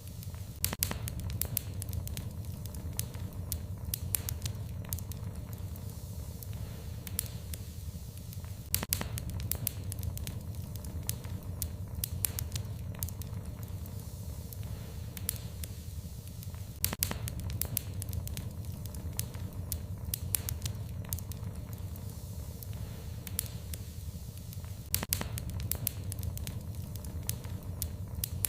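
Wood fire crackling in a fireplace, with irregular sharp pops and snaps over a low, steady rumble.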